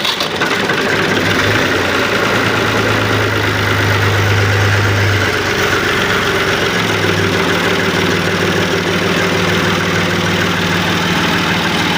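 A 480 tractor's diesel engine idling steadily just after being started on its self-starter. Its low running note shifts about five seconds in and settles again a couple of seconds later.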